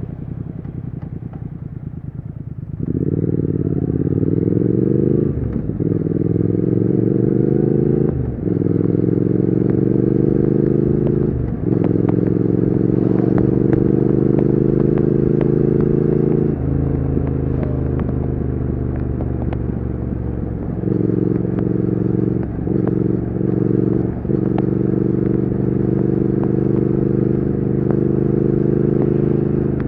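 Triumph Speed Twin 1200's parallel-twin engine accelerating hard through the gears. About three seconds in the throttle opens and the pitch climbs, falling back at each of four upshifts, then the engine settles into a steady cruise with a few brief throttle lifts near the end.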